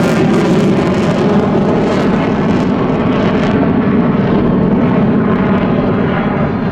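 Fighter jet flying a high-speed pass, a loud steady jet roar. Its high hiss thins out over the second half as the jet moves away.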